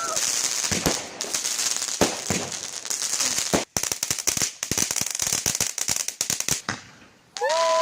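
Fireworks crackling: a dense run of rapid small pops over a hiss. It drops out briefly about three and a half seconds in, then fades out shortly before the end.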